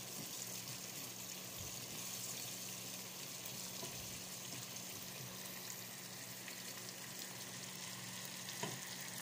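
Garlic spice paste frying in oil in a nonstick frying pan: a steady sizzle, with a wooden spatula stirring through it.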